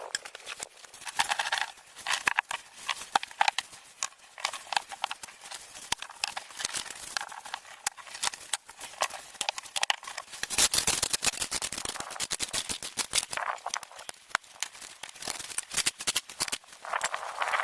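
Dense, irregular sharp clicks and knocks, like hard objects being handled or struck.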